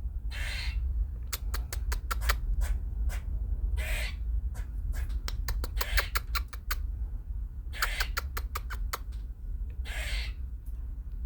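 Squirrel calling with a bird-like voice: runs of rapid clicking chatter broken by a few longer hoarse squawks.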